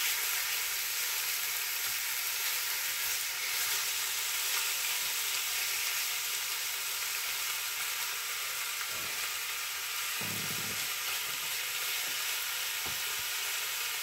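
Pork loin and vegetables sizzling steadily in a pan as they are stir-fried, with a couple of faint knocks along the way.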